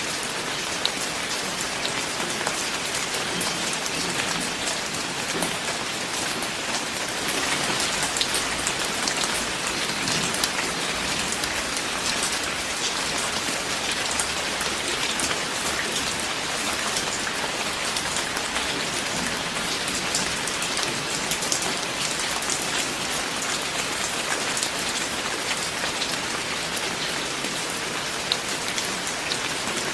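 Steady heavy rain falling on surfaces, with many individual drops striking close by; it swells a little about eight seconds in.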